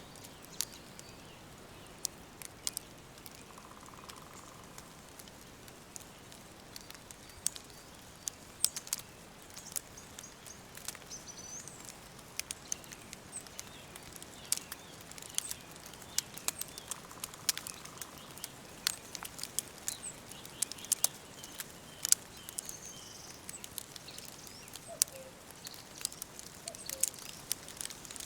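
Wood fire crackling with frequent sharp, irregular pops over a soft steady hiss, with faint bird chirps in the background.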